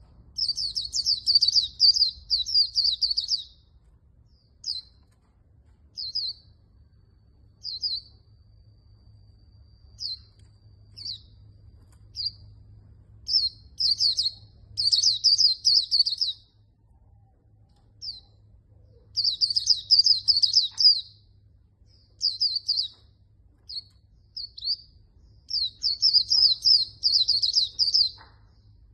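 Red-whiskered bulbul singing loudly: rapid, chattering high phrases a few seconds long, alternating with short single notes about one to two seconds apart, over a faint low hum.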